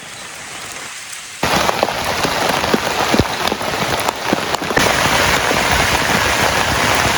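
Heavy rain falling, with many separate drops striking close by. It gets suddenly louder about a second and a half in, and again around five seconds.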